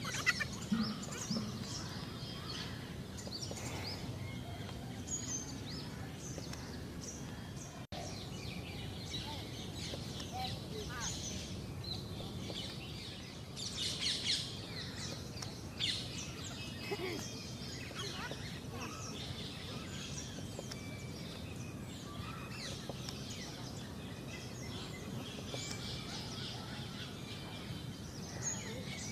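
Birds chirping and calling on and off over a steady outdoor background noise, with a brief louder flurry about halfway through.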